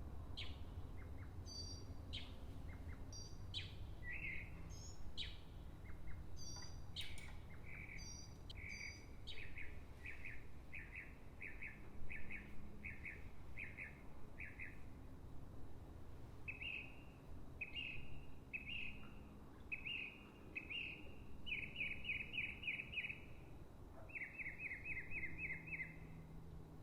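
Songbirds singing: quick high chirps at first, then a run of evenly repeated whistled notes about two a second, and near the end two fast trills. A steady low rumble of outdoor background noise lies beneath.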